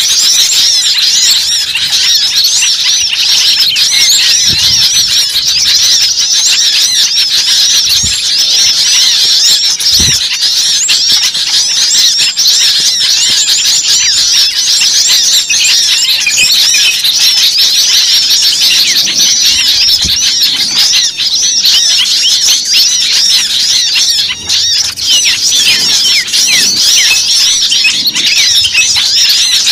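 A dense, noisy chorus of many small songbirds chirping and chattering at once, a bird-trapping lure recording meant to make small birds gather. The calls are high, rapid and overlapping without pause, with a few soft low thumps.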